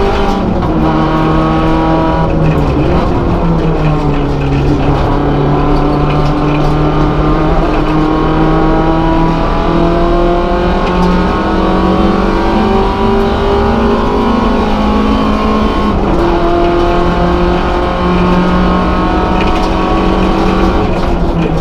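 An MG ZR 170 race car's four-cylinder engine heard from inside the cabin under racing load. The engine note drops a few times in the first five seconds, climbs slowly for several seconds as the car accelerates, and falls again near the end as the driver lifts and changes gear.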